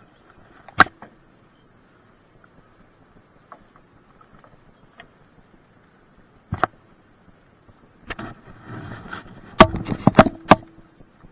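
Sharp knocks and thumps: one about a second in, another past the middle, then a quick flurry of loud knocks with scuffing near the end.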